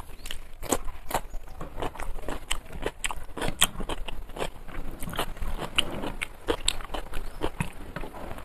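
A person chewing and crunching crisp fried food with the mouth, a steady run of small crackles and clicks.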